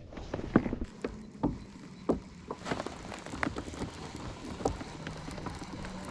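Irregular light knocks and clicks, about a dozen scattered through, with a faint steady low hum coming in near the end.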